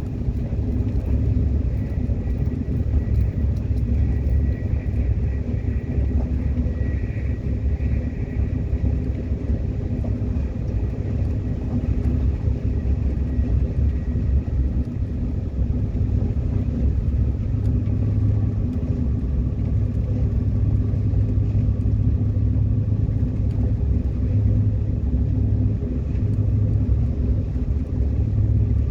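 Subway train running: a steady low rumble of wheels and running gear on the track, with a faint high whine in the first half that fades away, and a fainter, lower steady tone later on.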